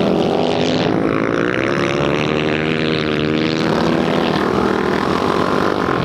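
Dirt bike engines running hard on a flat track, their pitch rising and falling with the throttle.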